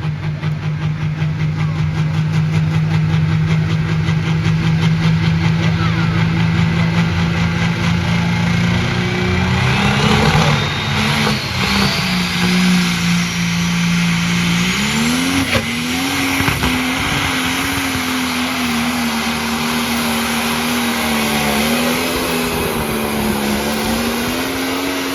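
Pro Stock John Deere pulling tractor's turbocharged diesel engine running hard under load at high revs. For about ten seconds the note holds steady. It then wavers and dips, and from about fifteen seconds on it runs at a higher, uneven pitch until it falls away at the end.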